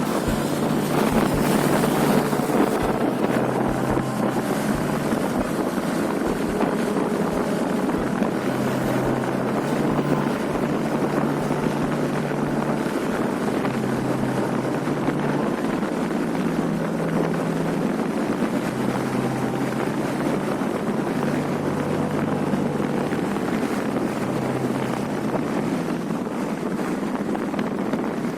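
Motorcycle engine running on the move, its low note shifting up and down every few seconds with speed, with wind rushing over the microphone.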